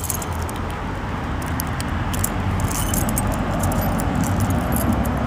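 A bunch of keys jingling and clinking as they are handled, over a steady low background hiss and rumble.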